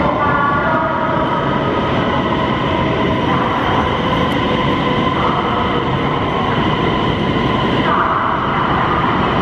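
CRH1A high-speed electric multiple unit rolling past at station-arrival speed: a steady rumble of wheels on rail, with several high whining tones that shift in pitch a few times as it slows into the platform.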